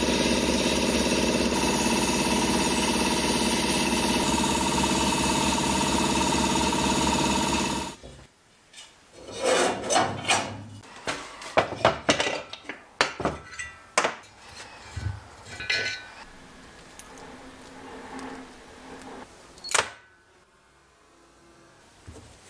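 A small motor running steadily and loudly, which cuts off about eight seconds in. It is followed by a string of separate metallic clinks and knocks, like tools or parts being handled and set down.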